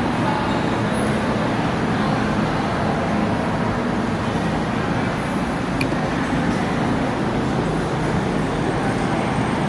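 Steady, loud rumble and din of a subway station.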